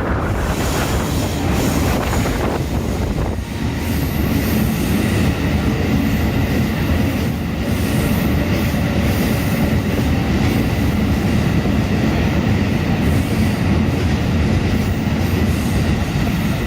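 EF510 electric locomotive hauling a freight train of limestone wagons past at close range: a steady loud rumble of steel wheels on rail with clickety-clack over the joints and a faint thin high squeal from the wheels.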